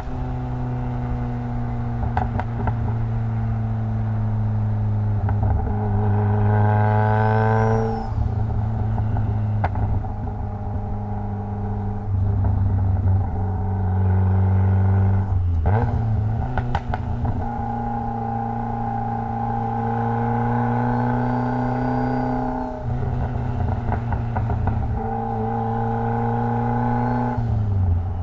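Mitsubishi Lancer Evolution X's turbocharged 2.0-litre four-cylinder engine pulling up through the revs three times, its pitch rising and then dropping off abruptly at each shift or lift, over a steady low drone. A few sharp clicks are heard about halfway through.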